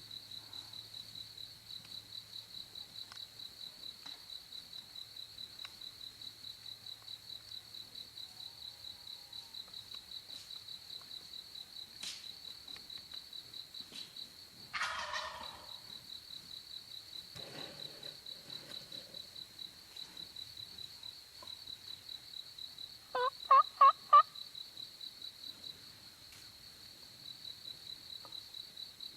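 An Eastern wild turkey tom gobbles once, a rattling call that falls in pitch, about halfway through, over a steady pulsing cricket trill. Near the end come four loud, short yelps close by, a hunter's turkey calling done with the mouth alone.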